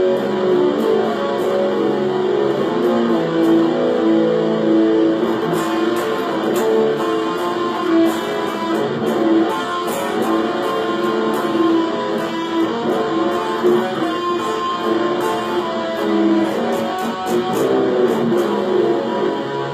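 B.C. Rich Lucky 8 eight-string electric guitar played through a multi-effects pedal and a mini amp: a continuous run of sustained notes, changing pitch often, with no pauses.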